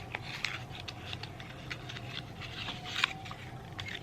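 Hands handling a lipstick and its packaging: a run of light rustles and small clicks and taps, over a faint steady room hum.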